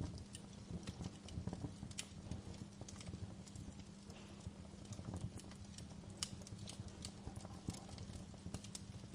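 Wood fire burning in a fireplace, crackling with irregular sharp pops and snaps over a low rumble of the flames and a faint steady hum.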